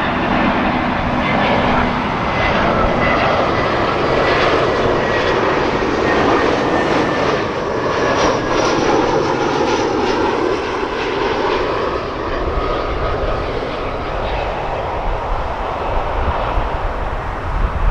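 Jet airliner engines running with a loud, steady roar and a faint high whine. A deep low rumble builds over the last few seconds.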